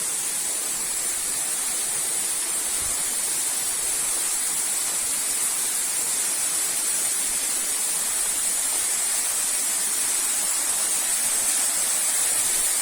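Steady rushing hiss of a small waterfall and the stream it feeds, growing slightly louder toward the end.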